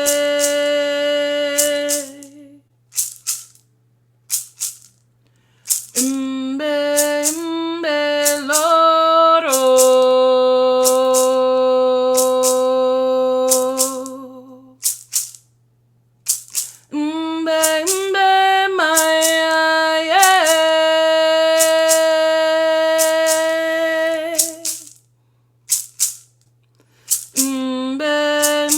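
A slow song: a single voice sings long held notes that step up and down in pitch, in phrases with short breaks between them, while a hand rattle shakes in scattered strokes.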